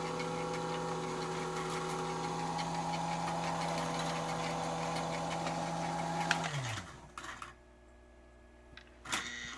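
Electric motor of a Lionel log loader accessory running its belt with a steady hum, then slowing with a falling pitch and stopping about six and a half seconds in. A few light clicks follow near the end.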